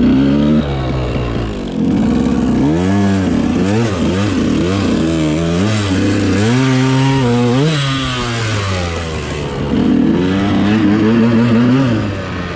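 Dirt bike engine being ridden, its revs climbing and dropping again four or five times as the throttle is worked, with a long rise and fall near the middle.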